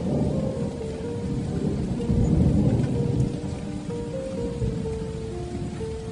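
Heavy rain drumming on a metal roof, with a low thunder rumble that swells about two seconds in and then fades. A slow melody of held notes plays over it.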